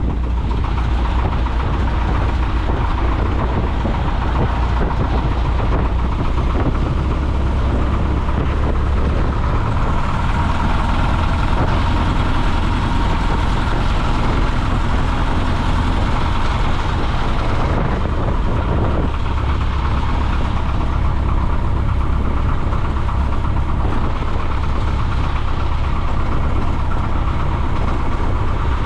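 Piper J-3 Cub's engine running steadily, heard from inside the cockpit with a constant low drone and rushing air noise.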